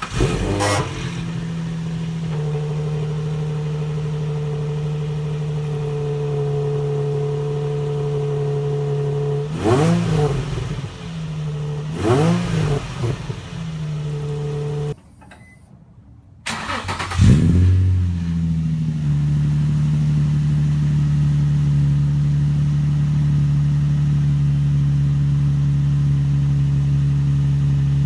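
2003 Nissan 350Z's 3.5-litre V6 breathing through headers and an Isis GT cat-back exhaust: it fires up and settles into a steady idle, is blipped twice, cuts off about fifteen seconds in, then is restarted with a flare and idles steadily again.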